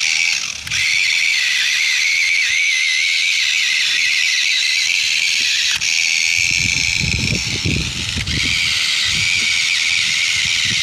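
High-pitched whine of a remote-control toy tractor's small electric motor and gearbox running. It starts abruptly, and a low irregular rumble joins it about halfway through.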